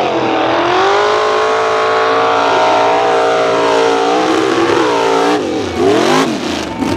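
Mega mud truck engine held at high revs under full throttle, then dropping and climbing in pitch a couple of times near the end as the throttle is lifted and stabbed again.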